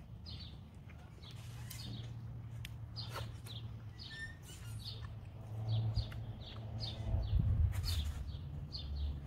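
A small bird chirping over and over in short, falling notes, a few a second, over a low background rumble that swells in the second half.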